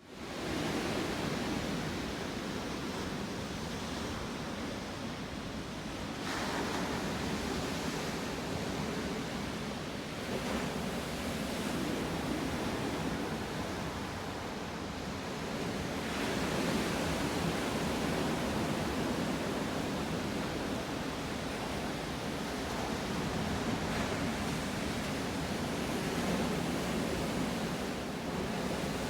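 Sea surf washing on the shore, a steady rushing noise that swells and eases every several seconds.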